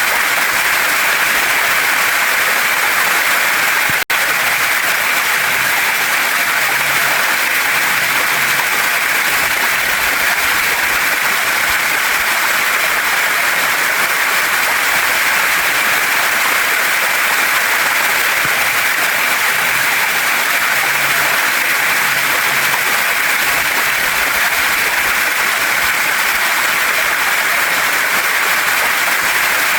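Waterfall and stream water rushing steadily, an even hiss-like roar with no change, broken only by a momentary dropout about four seconds in.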